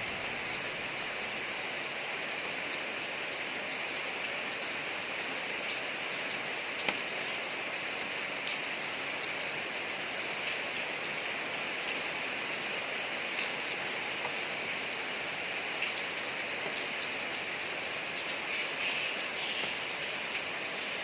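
Steady rain falling on a street, an even hiss with scattered drop ticks and one sharper tick about seven seconds in.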